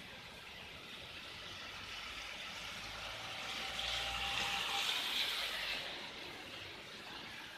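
Steady hiss of rain on a wet street. About three seconds in, a vehicle passes: a low rumble and a swell of tyre hiss that peaks and fades by about six seconds.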